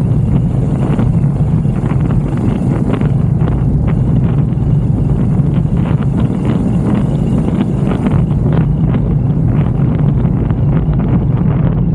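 Moto Guzzi V7 Racer's 750cc transverse V-twin running at a steady cruise, with wind buffeting the microphone.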